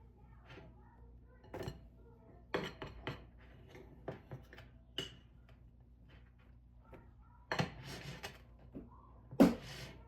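Kitchen clatter: dishes and utensils knocking and clinking in scattered strikes, the loudest knock near the end, over a faint low hum.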